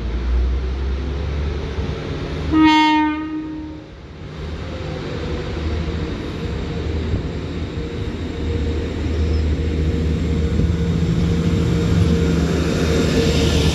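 A Class 175 diesel multiple unit sounds one short horn note, about a second long, a few seconds in, then its diesel engines and wheels rumble more and more loudly as it draws alongside the platform.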